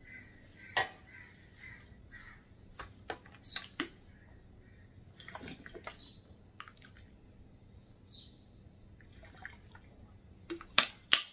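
A person gulping water from a plastic drinking bottle: scattered swallows with small clicks and knocks, and two sharp clicks near the end.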